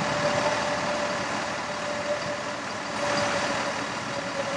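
Freightliner M2 bucket truck's Mercedes-Benz diesel engine running steadily, with a thin steady whine over the engine noise.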